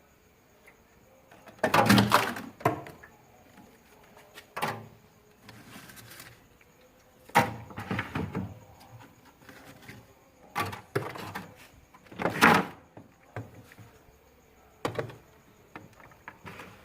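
Thick frost being knocked and scraped loose from the inside of a refrigerator's freezer: irregular knocks and scrapes in about six bursts, the loudest about two seconds in and again near the end.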